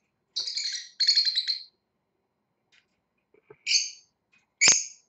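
Small pet parrot squawking while held for a nail trim: two harsh, buzzy calls in the first two seconds, then two short calls near the end, the last with a sharp click.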